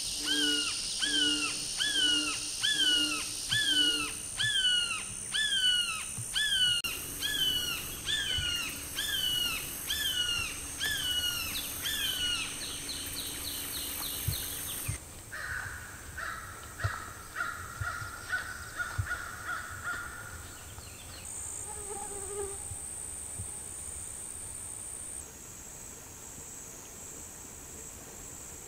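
A bird calling a long series of loud downslurred notes, about two a second, that runs into a quicker burst near the middle; a lower, rattling call follows. Insects drone steadily and high throughout.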